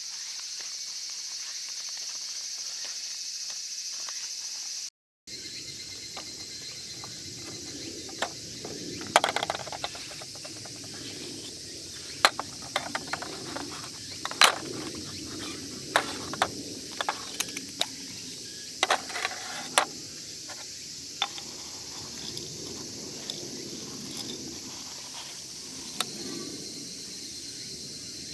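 Insects chirring steadily in a high band. After a short break about five seconds in, a scatter of sharp clicks and knocks of gear being handled joins them.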